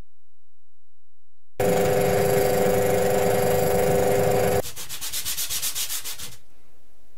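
Wood being sanded: a loud, steady abrasive grinding with a hum in it for about three seconds, which stops abruptly. It is followed by a couple of seconds of quicker, even rhythmic rubbing strokes that fade out.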